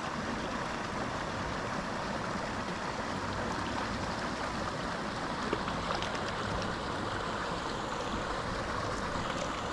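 Small mountain creek running steadily, an even rush of water over a riffle.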